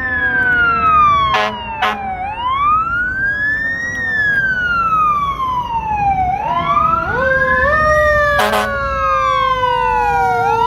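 Fire engine responding with its siren wailing, the pitch rising and falling in slow cycles of about four seconds. A second, lower siren tone climbs about six seconds in and then slowly falls. Short horn blasts cut in twice near the start and once more later.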